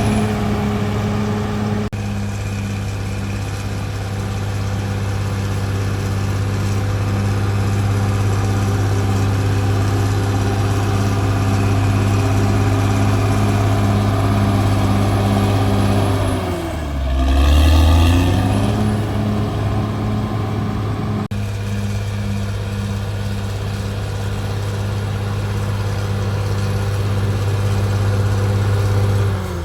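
Caterpillar D6R bulldozer's diesel engine running hard and steady. Its note drops and climbs back up once about halfway through, and starts to drop again at the very end.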